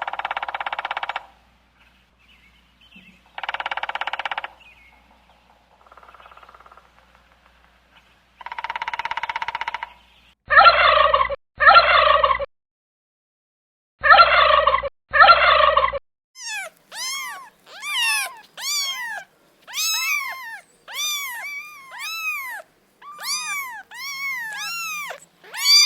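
A series of animal calls. Several buzzy, rattling calls come first, then four loud short calls in two pairs, then from about 16 seconds a long run of short arching calls, one after another.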